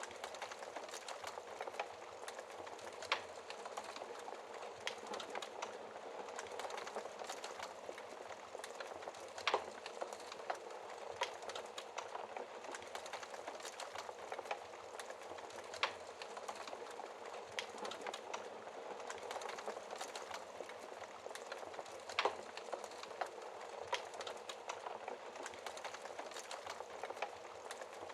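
Wood fire burning in a fireplace: a steady soft hiss with irregular sharp crackles and pops, a few of them standing out louder.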